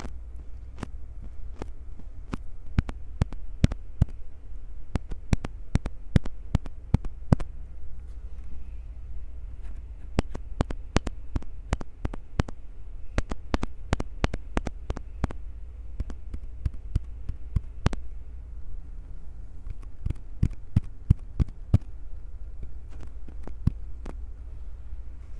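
Hands gripping and squeezing a Tascam recorder close to its microphones: irregular sharp clicks and taps, several a second, over a steady low thumping of handling noise.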